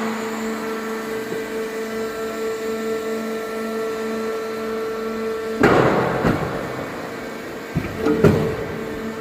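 Hydraulic scrap metal baler running with a steady hum from its power unit, broken by a loud crash a little past halfway and a quick cluster of sharp impacts near the end as scrap steel is compressed and shifted in the chamber.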